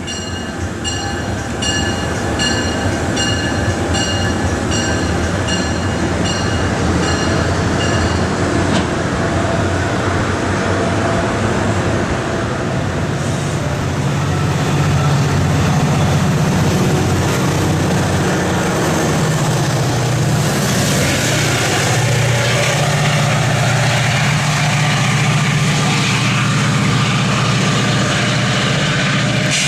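MARC commuter train pulling out and passing: a bell rings steadily about twice a second for the first eight seconds. Then a low locomotive drone builds from about thirteen seconds in, joined after about twenty seconds by a louder rush of wheel and rail noise.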